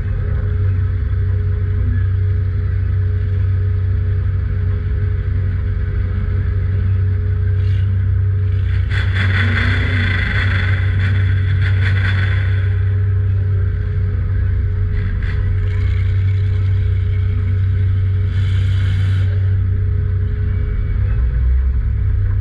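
Demolition derby car's engine running with a steady low drone, heard from inside the cab. A louder rush of hiss rises for about three seconds near the middle, with a shorter one later and a few brief knocks.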